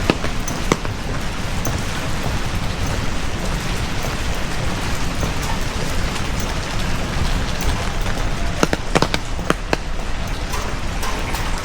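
Heavy rain falling steadily, an even hiss with scattered sharp drip taps, several of them close together about nine seconds in.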